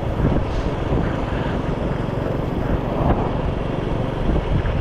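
Motorcycle running steadily on the move, with wind buffeting the microphone into a continuous, fluctuating low rumble.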